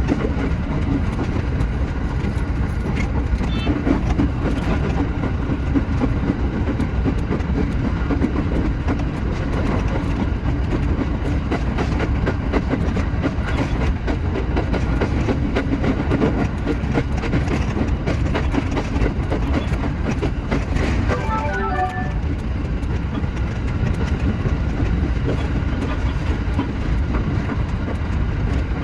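Shinano Railway SR1 series electric train running, a steady low rumble of wheels on rail with a rapid patter of clicks.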